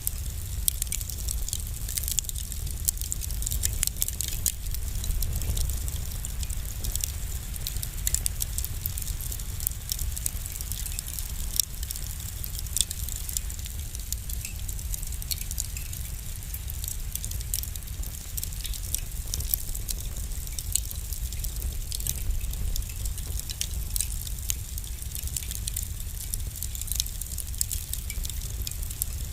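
Wood fire burning in a fireplace, crackling and popping in irregular sharp snaps over a steady low rumble and hiss of the flames.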